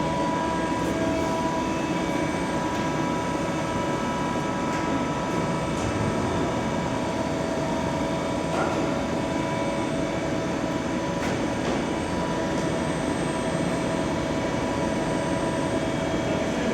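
Steady hum of running workshop machinery, CNC machine tools, with several steady whining tones over a broad noise and a few faint clicks.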